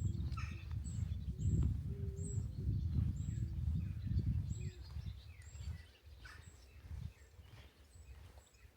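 Outdoor birdsong: a pigeon cooing a few low notes in the first half, with small birds giving short, high repeated chirps throughout. A low rumble underneath is the loudest thing and fades out about six seconds in.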